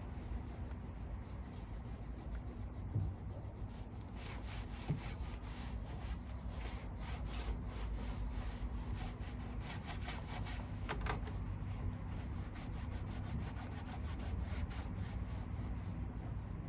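Repeated rubbing strokes on a surface, starting about four seconds in and going on steadily, over a constant low hum.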